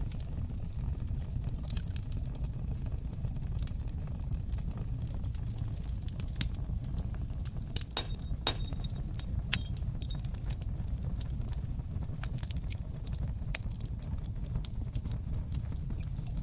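Wood fire burning in a fireplace: a steady low rumble of flames with frequent sharp crackles and pops, a cluster of louder pops around the middle and the loudest single pop about nine and a half seconds in.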